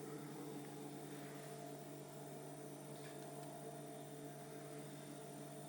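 Faint steady electrical hum, a low drone with a few higher steady tones and a thin high whine above it.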